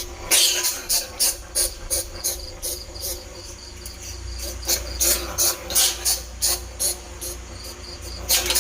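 Bandicoot rat squeaking: a rapid run of short, high-pitched squeaks, about two or three a second, with the loudest squeaks at the start, around the middle and near the end. It is a squeak call used to lure bandicoot rats and field rats.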